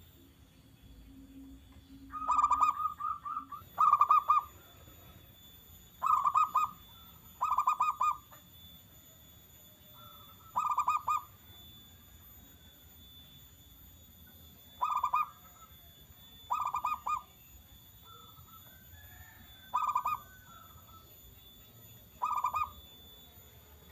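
Zebra dove (perkutut) cooing: nine short phrases of rapid pulsed coos, each under a second, repeated at uneven gaps of one to four seconds.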